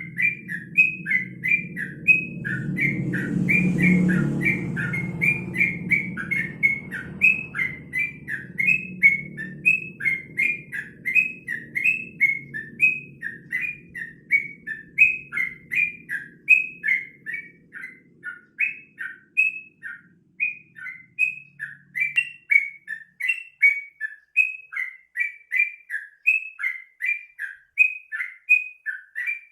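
Yellow-vented bulbul singing: a steady, fast run of short repeated chattering notes. A low rumble underneath swells about four seconds in and fades away a little past the middle.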